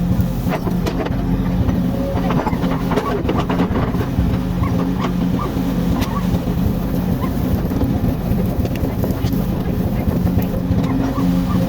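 Komatsu excavator's diesel engine running steadily, with scattered knocks and clanks over it.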